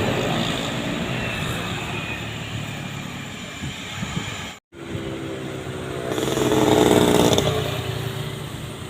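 Vehicle engines working on a steep uphill grade. The sound cuts out briefly about halfway, then one engine grows louder, peaks and fades as it passes.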